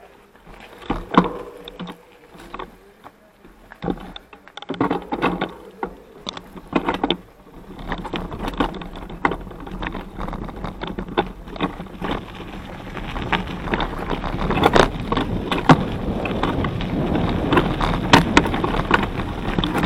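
Mountain bike riding a fast forest trail: irregular rattles and knocks of the bike over branches and rough ground, with tyre and wind rush that builds through the second half and is loudest near the end.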